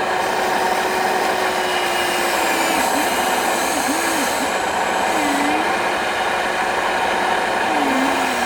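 Whining electric motors and gearboxes of radio-controlled model construction vehicles running over a steady hiss; the whine holds steady, then dips in pitch and comes back up several times as the motors slow under load and speed up again.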